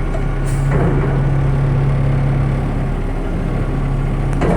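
Engine of a Peterbilt front-load garbage truck running steadily, with a short hiss about half a second in and a sharp clunk near the end.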